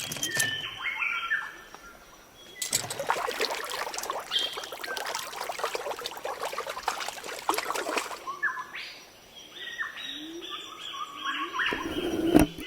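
Short, repeated bird chirps, with a dense crackling, clattering noise lasting about five seconds between them.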